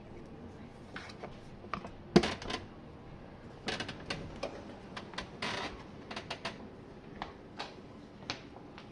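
Irregular sharp clicks and clatters from a dishwasher being handled, the loudest about two seconds in, with a busier run of clatter a little before the middle.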